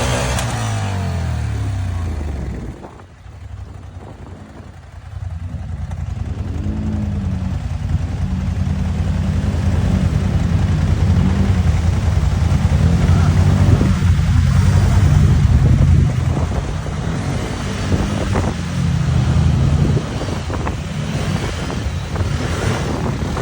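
Off-road vehicle engine running along a trail, its revs falling at the start, easing off briefly about three seconds in, then working up and down under load.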